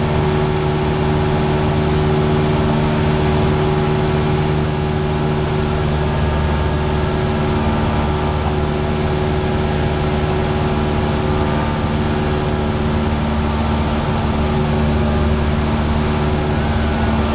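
Cessna 172R's four-cylinder Lycoming engine and propeller droning steadily, heard inside the cabin.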